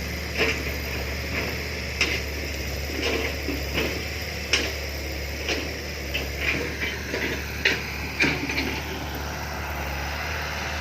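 A heavy vehicle engine running steadily at low pitch, with a dozen or so irregular sharp clanks and knocks of metal and dirt on top of it.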